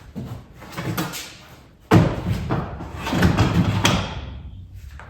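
Storage bins being loaded onto the rungs of a home-built garage rack: a few knocks, a loud thump about two seconds in, then a couple of seconds of knocking and scraping as the bins slide into place.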